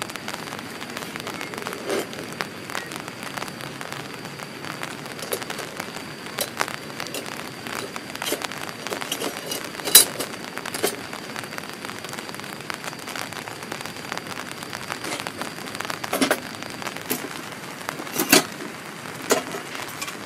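Heavy rain falling steadily, with a few sharp metallic clinks and knocks as a hurricane lantern and small brass burner parts are handled on a table.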